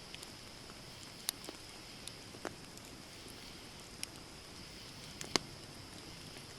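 Wood campfire burning: irregular sharp pops and snaps over a steady soft hiss, the loudest snap about five seconds in.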